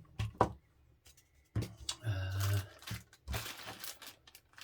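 Plastic packaging and kit parts being handled and rummaged through, with a few sharp clicks and a stretch of crinkling rustle.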